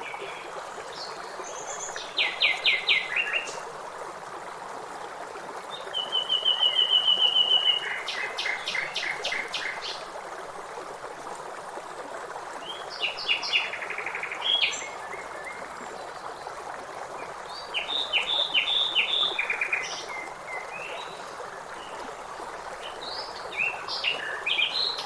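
Songbirds singing in short separate phrases of chirps and trills, one a rapid even trill, over the steady rush of a stream.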